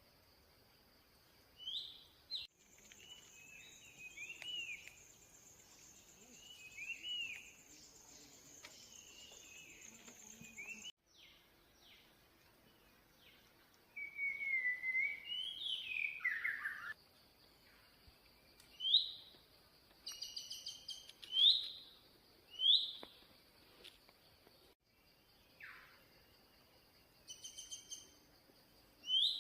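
Forest birds calling: many short whistled calls, some rising, over a steady high tone from insects. The sound cuts off abruptly a few times where separate recordings are spliced together.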